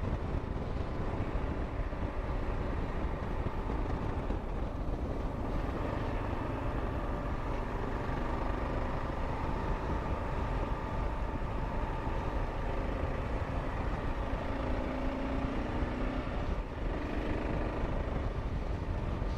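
Kawasaki KLR 650's single-cylinder engine running steadily under way, with steady wind rush on a helmet-mounted microphone; the engine note rises and falls a little with the throttle in the second half.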